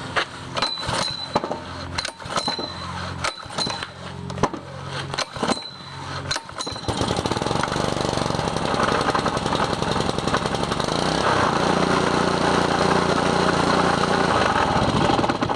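Honda GC160 160cc single-cylinder four-stroke engine being cold-started on choke: knocks and rattles from the pull-start at first, then about seven seconds in it fires and runs steadily at speed.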